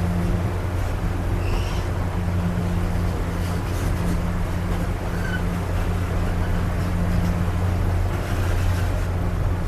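Railroad passenger coach in motion, heard from its open vestibule: a steady low rumble and drone of the running train, with a few faint brief squeaks.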